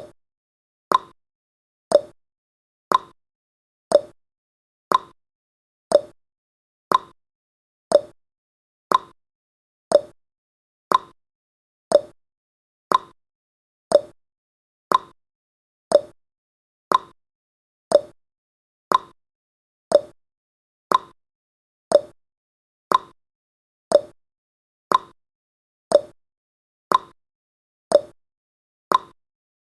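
A countdown timer's tick sound effect, one short, sharp tick exactly every second, with silence between ticks.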